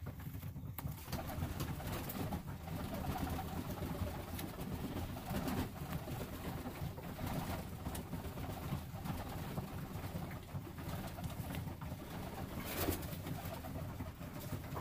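Domestic pigeons cooing continuously in a loft, with a few short sharp sounds among the cooing.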